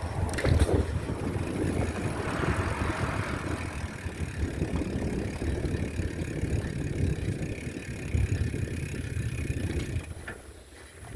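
Wind buffeting the microphone while riding a bicycle: a low, gusty rumble that eases off about ten seconds in.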